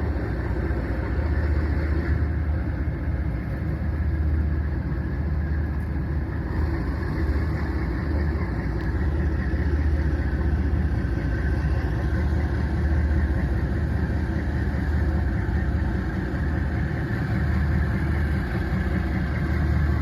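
Fast ferry's engines running steadily, a low, even drone.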